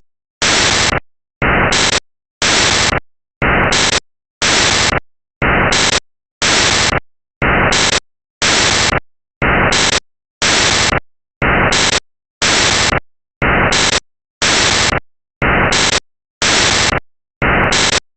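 Loud bursts of static-like hiss that switch on and off sharply about once a second in a steady, machine-regular rhythm.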